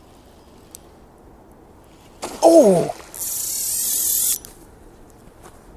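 A man's loud shout of "Oh!", then the drag of a fishing reel buzzing for about a second and a half as line is stripped off fast by an osprey flying away with the hooked trout. The buzz rises slightly and cuts off suddenly.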